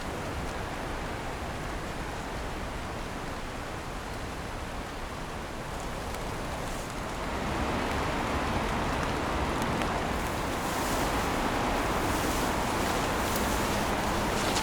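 Steady rain falling, an even hiss that grows louder about halfway through.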